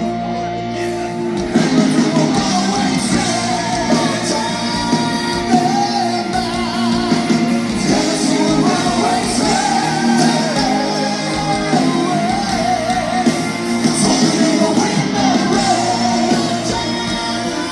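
A symphonic metal band playing live at full volume. It opens on a held keyboard chord, and the drums and guitars come in about a second and a half in, under a lead line that wavers with vibrato.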